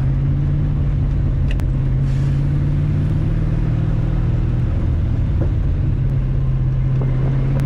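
Race car engine running at a steady pitch under load, misfiring, which the driver puts down to faulty spark plug wires.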